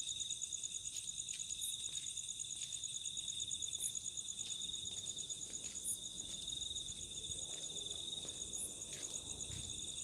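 Night insects, crickets among them, trilling steadily in two continuous high-pitched trills, with a short higher chirp repeating about every one and a half seconds.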